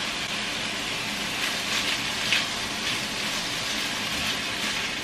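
Ground meat, potatoes and diced carrots sizzling steadily in an oiled wok, with a few faint scrapes of a spatula stirring the mix near the middle.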